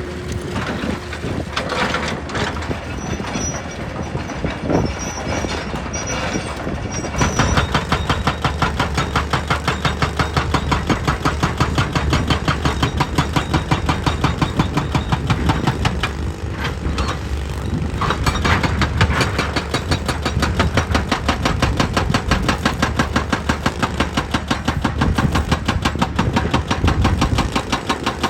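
Heavy machinery running. About seven seconds in, a rapid, even pulsing begins and keeps going, easing briefly in the middle.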